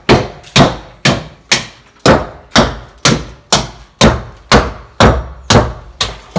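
Hammer striking in a steady rhythm, about two sharp blows a second, each ringing off briefly.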